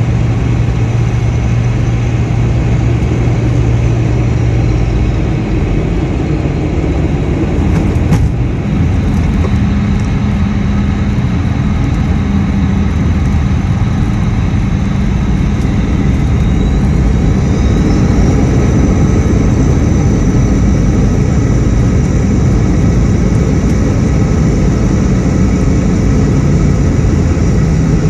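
Jet airliner landing: steady loud engine and airflow noise with a single knock about eight seconds in, then a whine rising in pitch around sixteen seconds in as the engines spool up.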